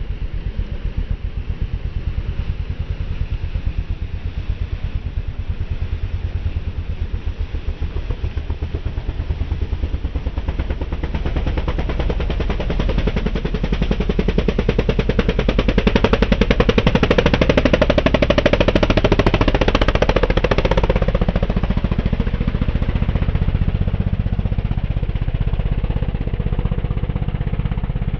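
Racing engines running with a rapid, even firing pulse, growing louder from about a third of the way in and staying loud.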